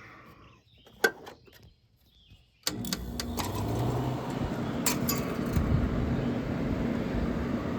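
A sharp click about a second in, then, near the three-second mark, a 1990 Gibson 5000 window air conditioner starts up suddenly and runs with a steady hum and whoosh. It is pretty quiet.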